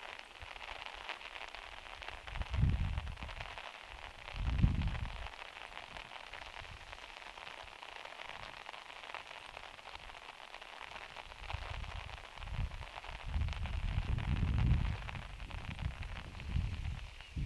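Steady rain pattering on the van's metal roof, with several low dull rumbles at irregular moments, the strongest about two and four and a half seconds in and a longer patch near the end.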